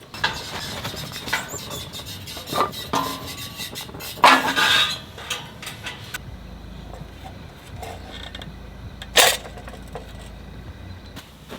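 Irregular knocks, clicks and clinks of objects being handled, with a louder rustling burst about four seconds in and a sharp knock about nine seconds in.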